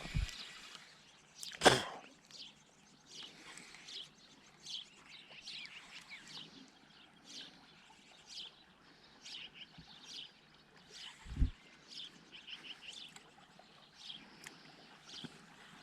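Small birds chirping repeatedly in short calls, with a single sharp click about two seconds in and a dull low thump around eleven seconds in.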